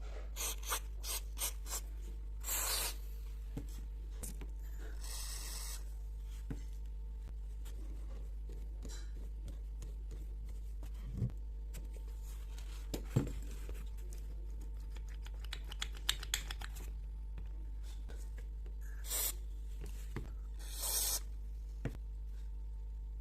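Hand-tool work on small parts: intermittent scraping and rubbing strokes, a quick run of fine rasping strokes in the middle, and a few light knocks, over a steady low hum.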